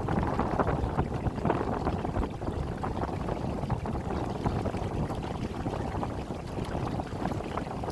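Wind buffeting the microphone over water sloshing and splashing against a kayak hull in light swells.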